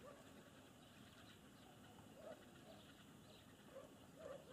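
Near silence, with a few faint, short bird calls about two seconds in and again near the end.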